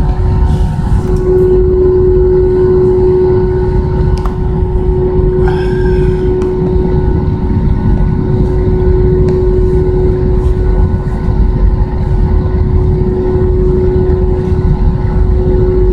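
Jet engines of an Airbus A320 heard from inside the cabin, running loudly and steadily as a deep rumble with a steady whine over it. A brief higher sound comes about five and a half seconds in.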